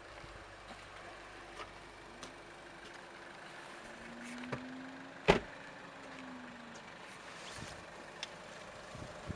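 A door shutting with one sharp knock about halfway through, among faint scattered clicks; a faint low hum rises and falls around the knock.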